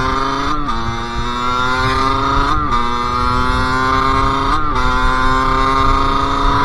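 Sherco SM-R 50's 50cc two-stroke engine pulling through the gears: the revs climb, then drop sharply at three upshifts about two seconds apart, each with a brief throttle cut.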